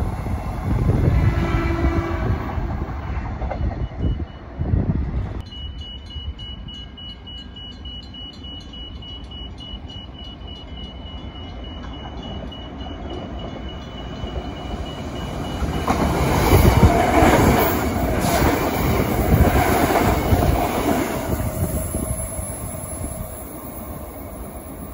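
Transperth electric suburban trains: one runs close past and away, then a quieter stretch with a level-crossing bell ringing rapidly at a steady high pitch, then another train passes loudly about sixteen to twenty seconds in.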